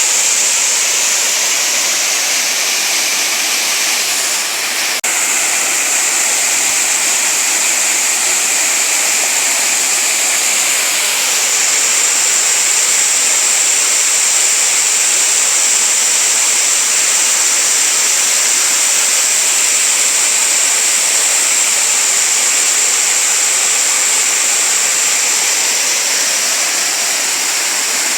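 Waterfall: water falling and rushing in a steady, even roar, with one brief dropout about five seconds in.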